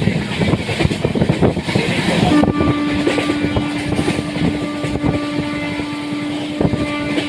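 Express train running, its wheels clattering and knocking over the rails with a rushing noise. A steady hum runs through it, stronger from a little over two seconds in.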